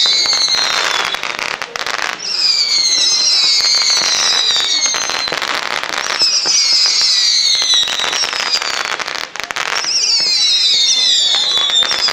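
Fireworks going off in a display: clusters of several shrill whistles falling in pitch, coming in rounds about every four seconds, over continuous crackling.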